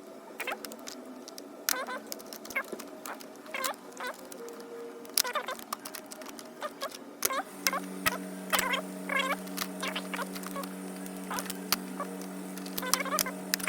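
Steel sockets and hand tools clinking and clicking as they are picked up and set down in a toolbox drawer, with frequent short metallic taps. A steady low hum starts about eight seconds in and continues underneath.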